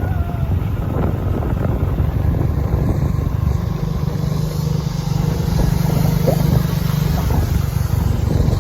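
Motorcycle running along at a steady pace, a low engine hum and rumble that grows a little stronger about halfway through.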